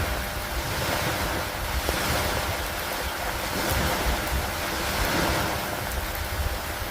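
Steady rain falling on a wooden dock: a dense, even hiss that swells and eases every second or two, over a low uneven rumble.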